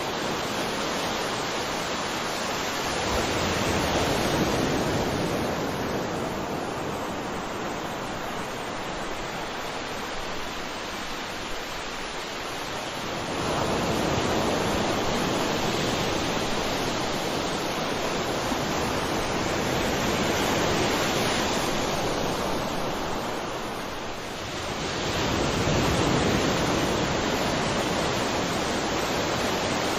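Ocean waves washing on a shore in a continuous rushing wash, with a wave swelling in about every seven to ten seconds.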